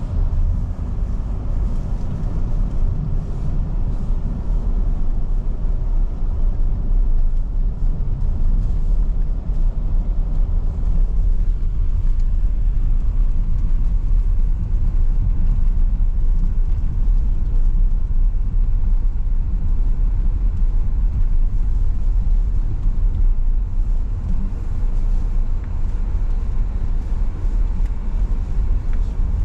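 Car driving along snowy city streets: steady low road and engine rumble.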